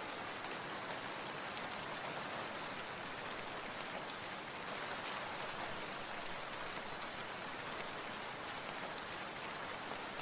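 Steady rain falling: an even, unbroken hiss with faint ticks of individual drops.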